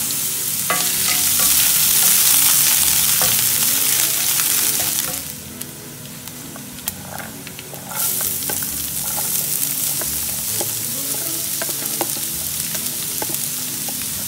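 Coconut bits sizzling in hot oil in a frying pan. The sizzle drops off suddenly about five seconds in to a quieter stretch with a few clicks, then comes back loud at about eight seconds as chopped red onion is tipped into the pan and starts frying.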